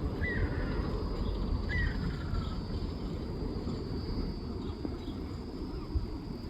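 Two bird calls, each a short note sliding downward, about a quarter second and two seconds in, over a steady low rumble and a thin steady high tone.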